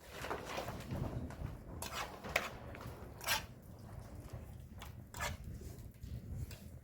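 Scattered knocks and rustling of things being handled, about four sharp clicks over a low rumble.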